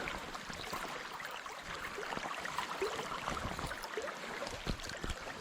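Shallow trout brook running over stones, with small irregular splashes and drips of water close by.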